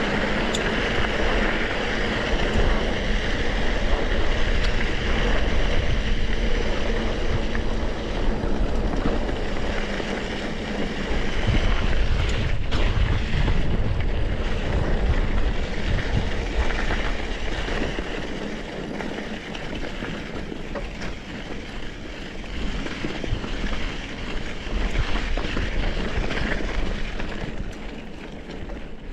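Wind buffeting the microphone over the rumble and rattle of a mountain bike rolling over a dirt trail, a steady noise that eases somewhat about two-thirds of the way through.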